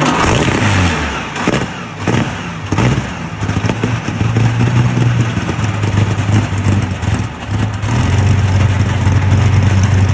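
Rolls-Royce Merlin 27-litre V12 aero engine running in a car. It fires unevenly with sharp cracks for the first few seconds, then settles into a steady low note that grows louder about eight seconds in.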